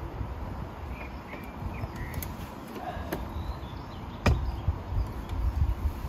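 Short bird chirps scattered through a forest, over low wind noise, with one sharp knock about four seconds in.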